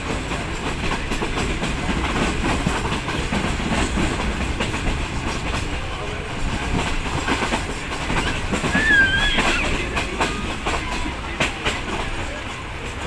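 Passenger train running, heard from an open carriage door: a steady rumble with wheels clicking over the rail joints. About nine seconds in there is a brief high wavering squeal.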